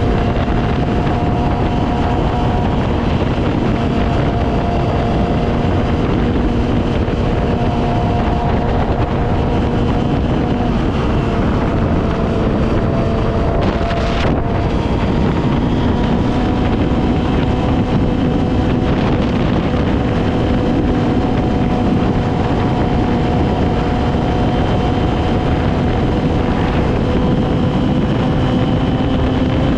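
Yamaha R6's inline-four engine running at a fairly steady speed, its note drifting slowly and rising a little near the end, with wind rushing over the microphone.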